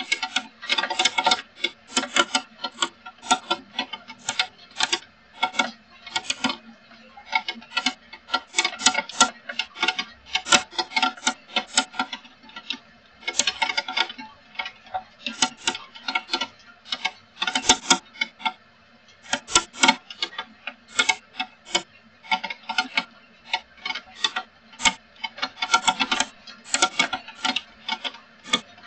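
Raindrops tapping on a hard, resonant surface: irregular clusters of sharp ticks, each ringing briefly at the same few pitches.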